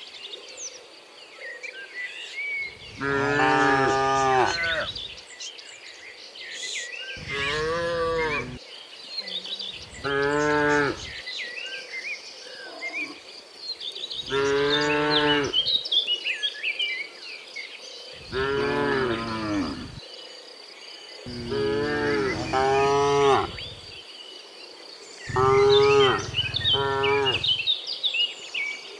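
Cattle mooing again and again, about eight long moos spaced every three to four seconds, a few of them in quick pairs. Birds chirp in the gaps, under a faint steady high-pitched hum.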